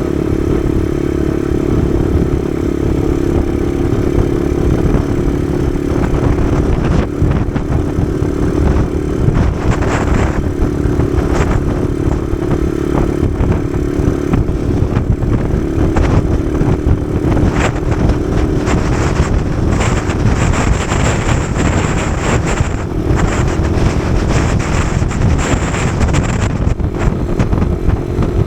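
Kawasaki KSR110's small single-cylinder engine running steadily while riding, with heavy wind buffeting on the microphone.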